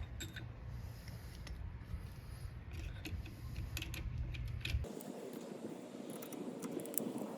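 Light metallic clicks and clinks of clutch plates and a spacer being handled and fitted into a clutch, over a low hum that stops suddenly about five seconds in.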